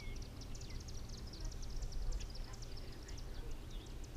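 A dense outdoor chorus of many short, high-pitched chirps and ticks from wildlife around the lake, with a few brief twittering calls mixed in, over a steady low rumble.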